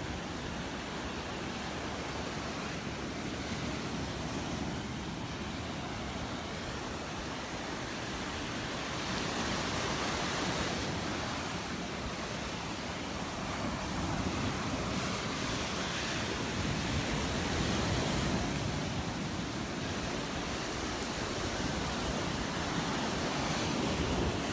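Surf breaking and washing up the beach, a steady rush that swells a few times.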